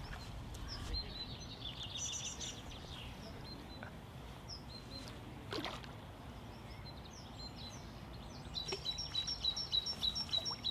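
Birds calling over faint open-air background noise: a short trill about two seconds in, then a run of repeated high chirps, about three a second, near the end. A single faint click comes about halfway through.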